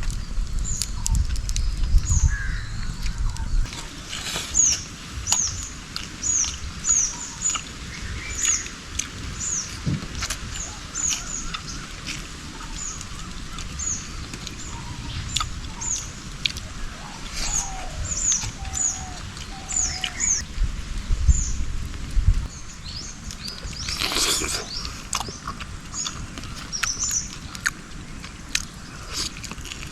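Birds calling in forest: many short, high, downward-sliding chirps repeating every fraction of a second. There is a low rumble near the start and again a little past the middle, and a brief noisy rustle about 24 seconds in.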